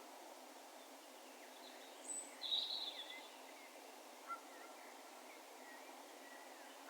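Birds calling in the distance over a steady low hiss of outdoor background noise: a brief very high call about two seconds in, a louder call just after, then a few faint chirps and short whistled notes.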